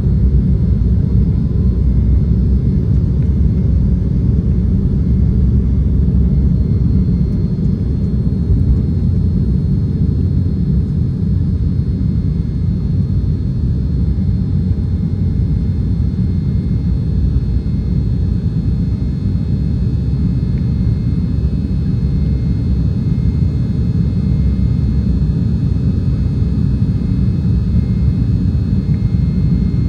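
Steady low rumble inside the cabin of an Embraer E195 airliner, its GE CF34 turbofans running at an even setting with a faint steady whine above the rumble.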